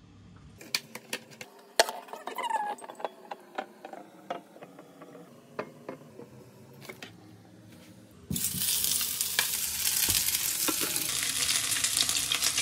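Scattered clinks and knocks of kitchen utensils, then about eight seconds in a loud, steady sizzling starts suddenly as turmeric-coated boiled eggs and potatoes go into hot mustard oil in a pan and begin to fry.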